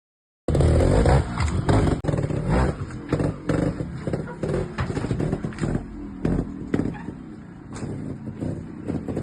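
Sherco trials motorcycle engine revving in quick, uneven throttle blips, loudest in the first couple of seconds. It starts abruptly about half a second in and cuts off sharply at the end.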